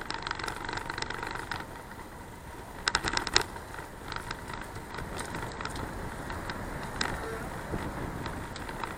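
Riding noise from a bicycle ride picked up by an action camera: a steady rushing noise with scattered clicks and rattles, and a quick cluster of sharp clicks about three seconds in.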